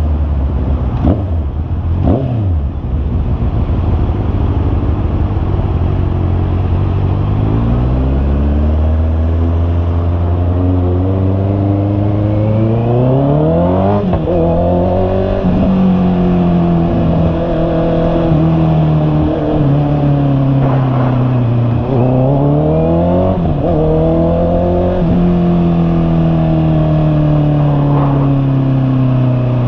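2021 Honda CB650R's inline-four engine under way. The revs climb and fall back several times with gear changes, then hold steady between shifts.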